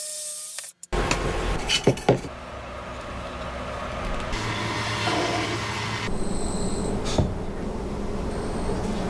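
Woodworking sounds: a few sharp knocks about two seconds in, then a steady noisy rubbing of wood.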